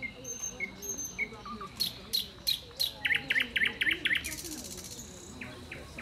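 Small songbirds singing and calling: scattered high chirps, then a few sharp falling notes, a quick run of about seven notes, and a brief buzzy rattle about four seconds in.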